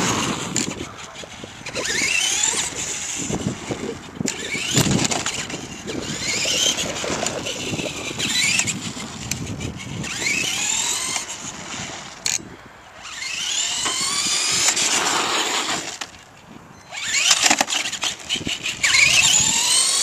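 Traxxas RC monster truck's electric motor whining as it is throttled, rising and falling in pitch in repeated bursts of acceleration with short pauses between, along with rattling from the truck running over the ground.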